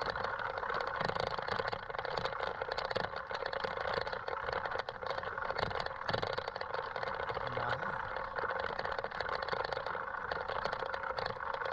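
Mountain bike rolling over a rough, rocky trail: a steady rumble of tyre noise with continuous rattling and clicking from the bike.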